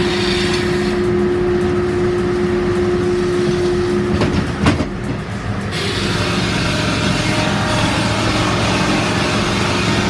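Heavy machinery running steadily with a held whining tone that drops out about halfway through. A few sharp knocks come just before the tone stops, and after that the running sound turns brighter and hissier.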